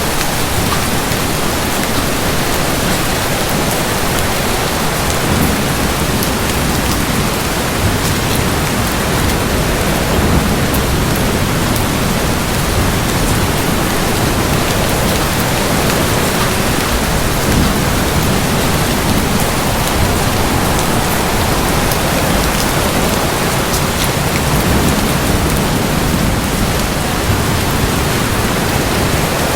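Steady heavy rain pouring and pattering on hard surfaces, with low rumbles of distant thunder swelling and fading several times.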